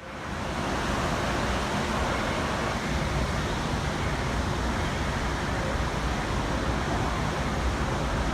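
Steady rumble and hiss aboard an R160B Siemens subway car, with no distinct clicks, tones or announcements.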